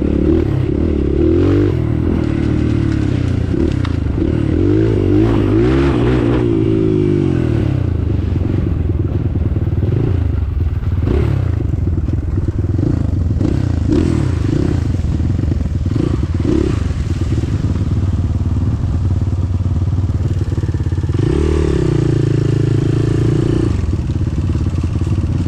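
Motorcycle engine running under load, its pitch rising and falling as the throttle opens and closes, most plainly in the first seven seconds and again a little past twenty seconds.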